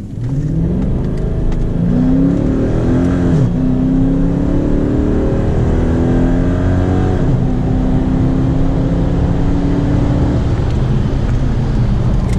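5.7 Hemi V8 with a muffler delete and cold air intake at full throttle from a standing launch, the wheels spinning briefly, revs climbing through the gears with three upshift drops in pitch. Near the end the revs fall as the throttle is lifted after the run.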